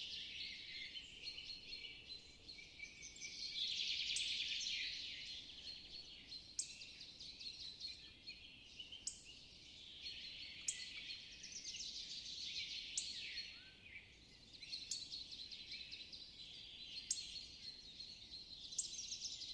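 Several songbirds singing together in a dense chorus of chirps and trills, with sharp high notes every couple of seconds.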